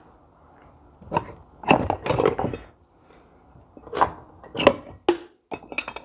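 Metal tools and parts being handled on a workbench: a series of irregular clinks, knocks and clatters, with a quick run of small clicks near the end.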